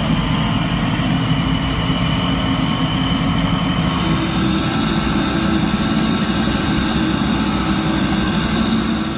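Heavy-haul truck's diesel engine running steadily, with a thin high whine over it.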